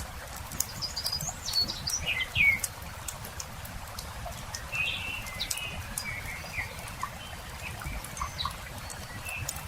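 Wood campfire crackling with scattered sharp pops, while small birds chirp and twitter over it. The chirps come in runs about a second in and again around the middle.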